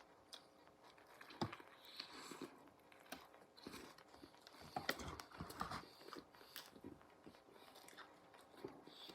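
Faint, close-up biting and chewing of fast food, with small irregular crunches and mouth clicks.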